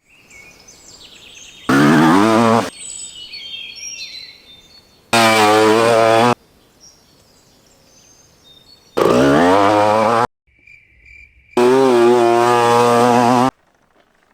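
1989 Honda CR250R single-cylinder two-stroke engine revving in four short bursts, each rising in pitch and cutting off abruptly. Faint birds chirp in the gaps between.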